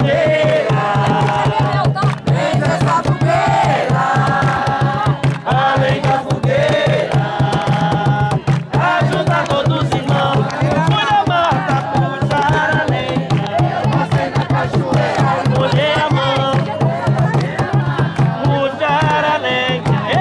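Jongo: several voices singing a chant together over fast, steady drumming on hand drums.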